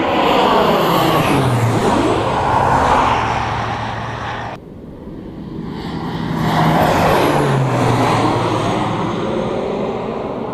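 Two vehicles pass by one after another. Each one swells and then fades with a falling pitch, and there is an abrupt cut between them about four and a half seconds in.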